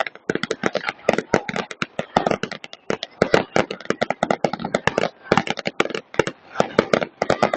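Fireworks going off in a rapid, irregular string of sharp bangs and pops, several a second, some trailing a short echo.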